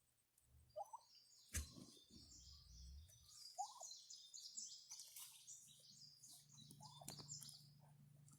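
Faint twittering of small birds, with a few short, lower calls from turkeys and a single knock about a second and a half in.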